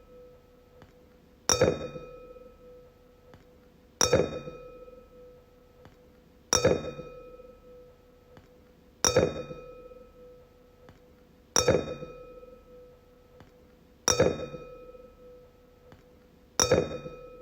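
Wine glass struck seven times, about every two and a half seconds; each strike leaves a clear ringing tone that fades over a second or so.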